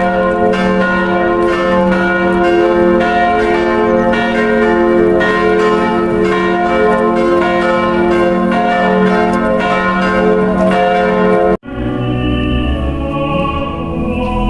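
Church bells ringing, several pitches struck over and over and ringing on together. About three seconds before the end they cut off abruptly and music with sustained low tones begins.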